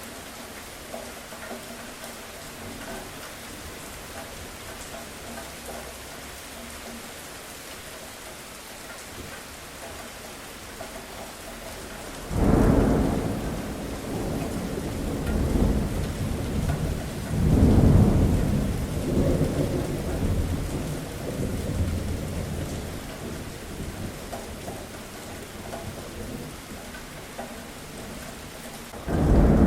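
Steady rain falling, then thunder breaking in suddenly partway through and rumbling on, with a second loud swell a few seconds later before it fades. Another thunderclap starts just at the end.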